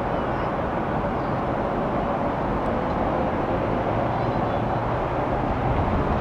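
Jet airliner engines running steadily: an even rumble and hiss with a faint steady tone held through it.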